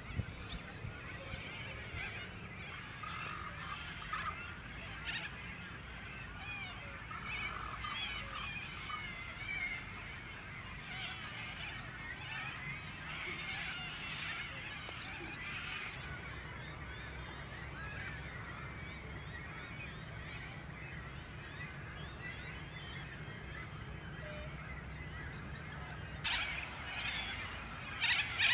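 Many birds calling at once: a dense chatter of overlapping calls, with a few louder calls near the end, over a steady low rumble.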